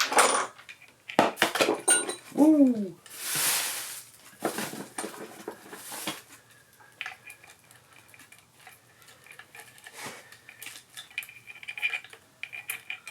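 Metal engine parts and hand tools clinking and clattering as they are handled, with a short hiss about three and a half seconds in and lighter scattered clicks after that.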